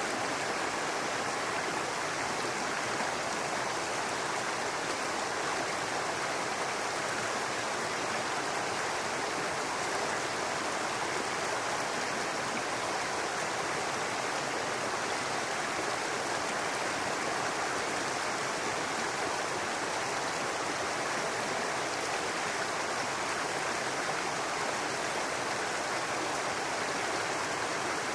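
Babbling brook: water running steadily over rocks, an even rushing without breaks.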